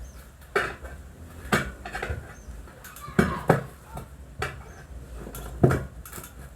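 Metal hand tools clinking and knocking against metal during a motorcycle tyre repair: separate sharp strikes at irregular intervals, roughly one a second, with a pair close together about three seconds in.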